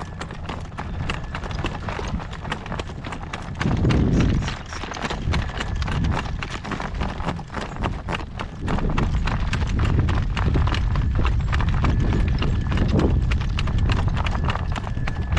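A young horse's hooves clip-clopping in a steady trot on hard ground while it pulls a driving cart. A low wind rumble on the microphone swells about four seconds in and again through the second half.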